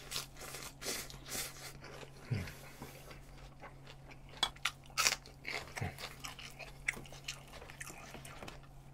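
A person chewing a big mouthful of lettuce wrap, with wet crunching and smacking bites in an irregular patter that grows loudest in a cluster about halfway through.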